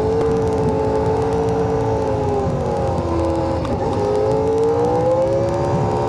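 Toyota LandCruiser 79 series engine pulling on the road, its note falling away and then, after a break about 3.5 to 4 s in, picking up higher and climbing again, as with a gear change, over steady road rumble.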